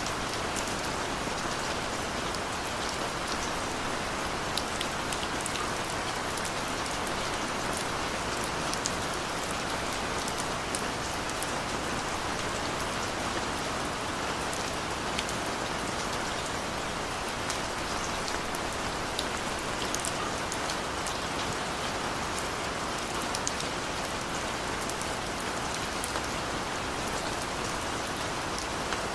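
Steady gentle rain falling, with many scattered drops ticking on a surface.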